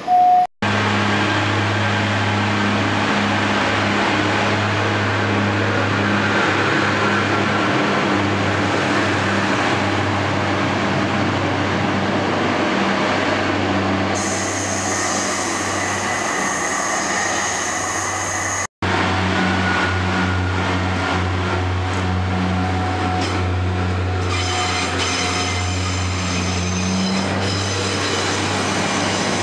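Diesel multiple-unit trains running through a station: a steady low engine hum, with high-pitched wheel squeal a little past the middle and again near the end. The sound drops out briefly twice where the footage is cut.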